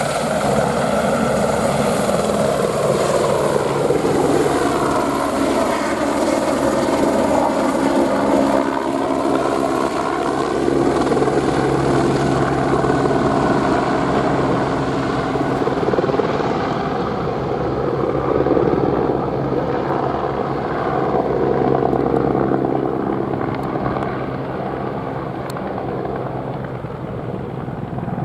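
Airbus AS350 helicopter's single-turbine engine and rotor running loud and continuous in flight; the pitch of its rotor tones dips and rises again about four to eight seconds in, and the sound grows duller and a little quieter near the end.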